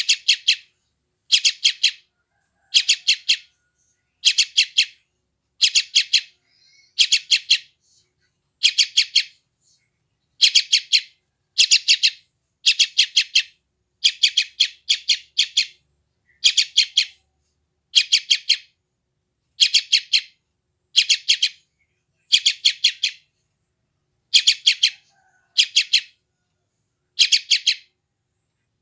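Young yellow-vented bulbul (trucukan) calling, the begging calls of a hungry chick: short bursts of several rapid high chirps, repeated about once every second and a half.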